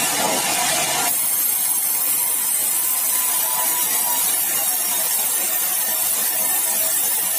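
Sawmill saw cutting meranti timber: a loud, steady hissing noise that turns thinner and higher about a second in.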